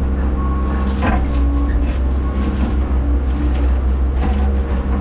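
Hyundai HX140AL excavator's diesel engine running steadily as the machine works, with a few short knocks about a second in and again near the end.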